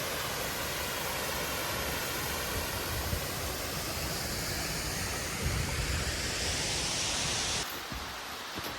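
Waterfall: a steady rush of falling water that drops to a quieter level near the end.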